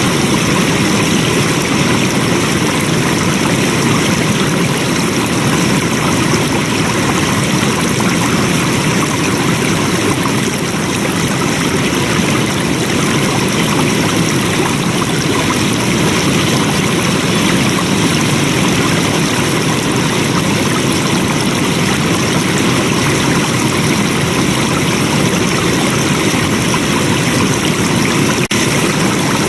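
Flowing water running steadily, an even rushing with no breaks.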